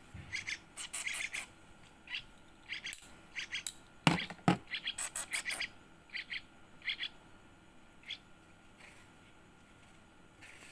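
Yellow-vented bulbul nestling making short, sharp begging chirps in quick runs, which thin out after about six seconds. Two knocks come about four seconds in.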